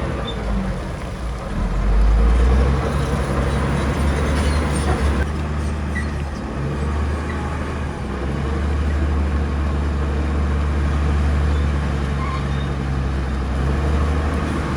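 Heavy diesel engine of earthmoving machinery running steadily, its low drone swelling about two seconds in and again later as the load changes.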